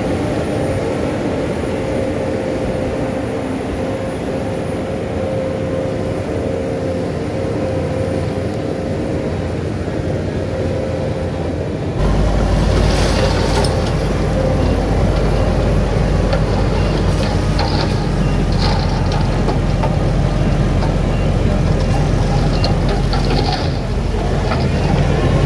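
Heavy diesel earthmoving machinery running steadily. About halfway through the sound jumps abruptly to a heavier, louder low rumble with scattered clatter above it.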